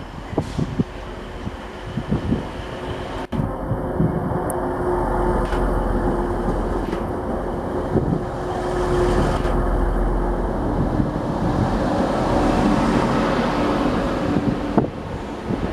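A passenger train running through the station, a steady rumble with a held engine tone that grows louder through the middle.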